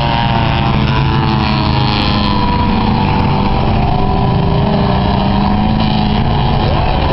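Several race trucks' engines running at speed together, their pitches drifting slowly up and down as they race.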